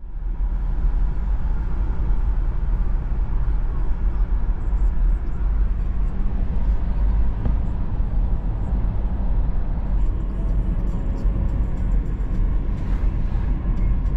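Steady low rumble of a moving vehicle, with faint small clicks and rattles in the last few seconds.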